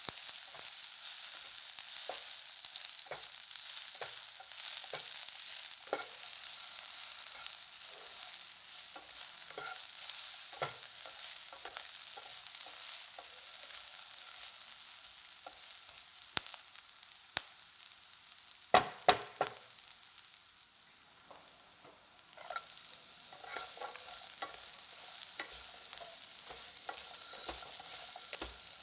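Food sizzling as it fries in a hot pan, with a utensil clicking against the pan as it is stirred and turned. A cluster of sharper clacks comes a little after halfway, and the sizzle dies down briefly before picking up again.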